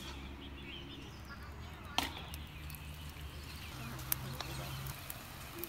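Chopped tomatoes frying with a faint high sizzle in a cast iron wok over a wood fire, with a spatula knocking against the wok: a sharp knock about two seconds in and a smaller one a couple of seconds later, over a low steady hum.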